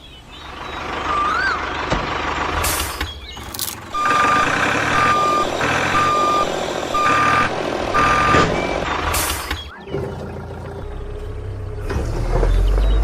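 Vehicle reversing alarm beeping about five times, roughly once a second, over steady vehicle noise.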